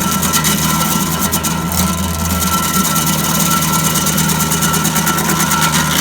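An engine running steadily at a constant speed, with a fast, even beat and no change in pitch.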